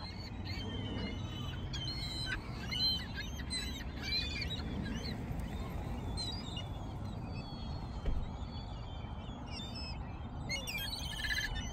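A flock of seagulls calling as they feed on thrown bread: many short, high, squeaky calls overlapping and scattered throughout, over a steady low background hum.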